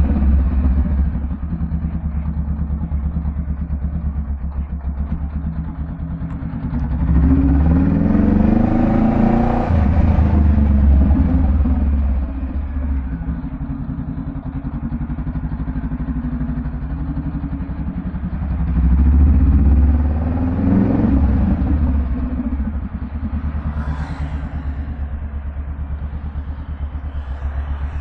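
Honda Rebel 500's parallel-twin engine through a Vance & Hines exhaust, idling with a deep rumble and revved twice, the first rev held for several seconds about seven seconds in and the second shorter one near nineteen seconds in.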